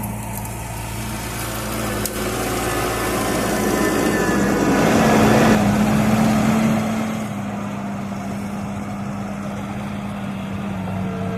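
Bobcat skid-steer loader's diesel engine running steadily while it works, growing louder for a couple of seconds around the middle before settling back.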